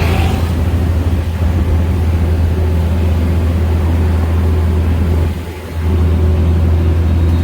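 Vehicle engine running with a steady low drone, easing off briefly about five and a half seconds in.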